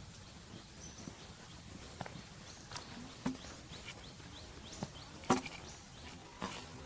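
Faint outdoor ambience with scattered sharp clicks and taps, the loudest about five seconds in, and a few brief high chirps.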